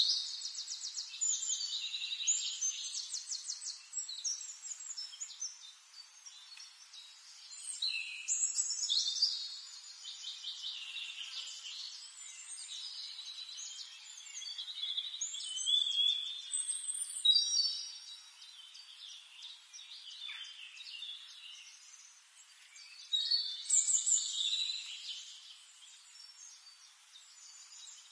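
Songbirds singing: quick trills, chirps and sweeping whistles that come in louder bursts every several seconds, with no low sounds beneath them.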